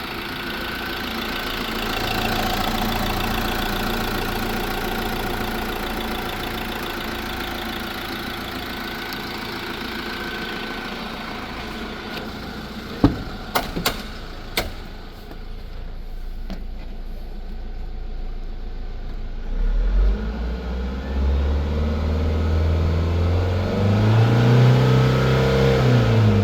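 A 2018 Fiat Ducato's 2.3 turbo-diesel four-cylinder engine running on test: a steady idle, a few sharp knocks about halfway through, then the revs raised and let fall toward the end.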